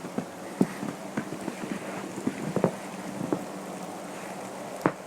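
Wet, sticky snow coming down at about freezing, a steady hiss with irregular light ticks of flakes hitting surfaces.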